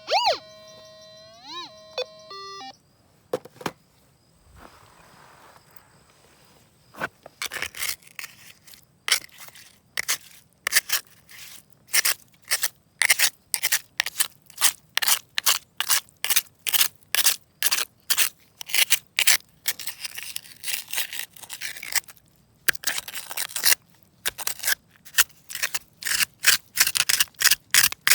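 Repeated short scraping strokes of a digging tool working gravelly ground, about two a second, beginning some seven seconds in, with a couple of brief pauses. A short musical sting sounds at the very start.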